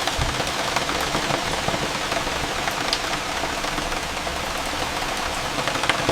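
Steady rain falling, a dense hiss with many single drops ticking close by, over a low rumble.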